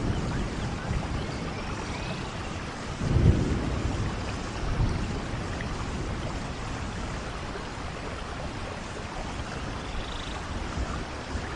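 Steady rain falling, with a low rumble of thunder swelling about three seconds in and a smaller one a second or so later.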